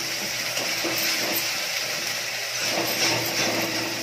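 Tomato purée sizzling in hot mustard oil in a metal kadhai, with a metal spatula scraping the pan now and then as it is stirred in.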